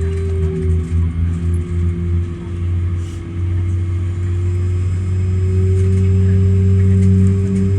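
Airbus A380 engines heard from inside the cabin: a steady low rumble with a humming tone that dips and then rises again, getting louder over the last few seconds.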